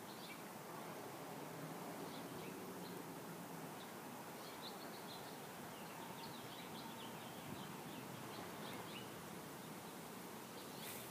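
Faint park ambience with small birds chirping in the distance, a run of quick high chirps through the middle. A brief rustle comes near the end.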